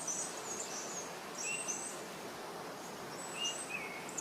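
Small birds singing, a short phrase of a lower note followed by high thin whistles repeated about three times, over a steady background hiss.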